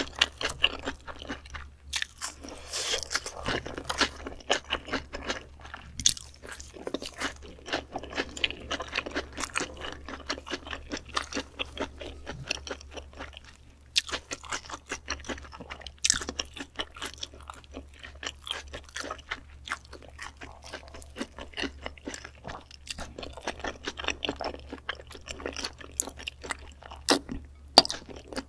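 Close-miked chewing of raw beef spinal cord: a continuous run of wet, sticky clicks and small crunches, with one sharper loud mouth sound near the end.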